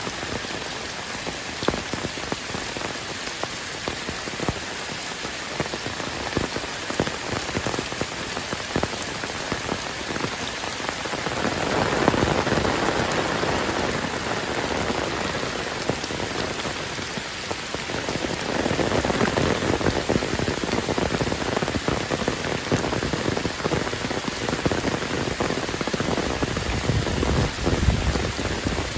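Heavy rain falling steadily, a dense patter of drops hitting surfaces. It swells louder about twelve seconds in and again a little past the middle.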